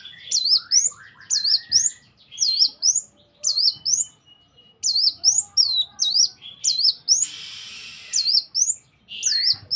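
A bird repeating a sharp, high chirp that swoops down and back up, about two notes a second in runs of two to four with short pauses, and a harsh raspy note about seven seconds in. It is a lure recording of bird song, played to prompt a caged bird to start singing.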